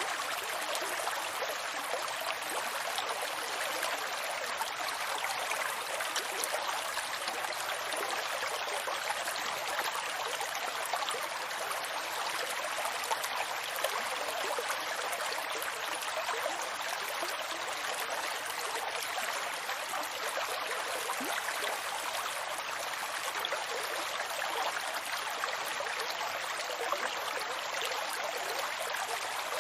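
Water of a stream flowing steadily: an even rush with fine splashing.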